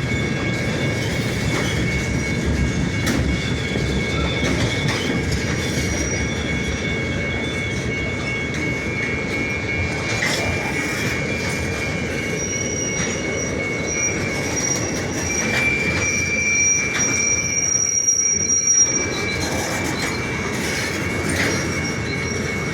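A train rolling along with a low rumble while its steel wheels squeal on the rails in a steady high whine. A second, higher squeal joins about halfway through, and there are a few sharp clicks.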